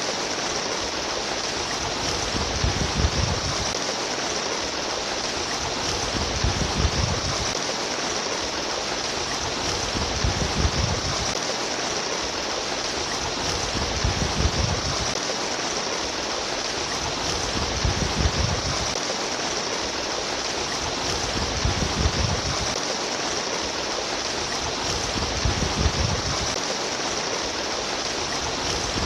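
Flowing stream water splashing and trickling steadily, with a deeper surge in the flow about every four seconds.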